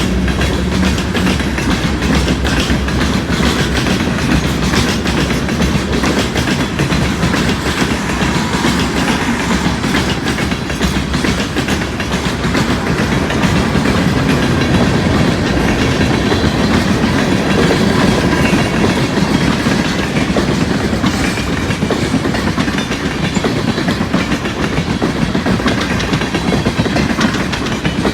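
New York, Susquehanna and Western freight train rolling past, its wheels clacking over the rail joints in a steady run of clicks.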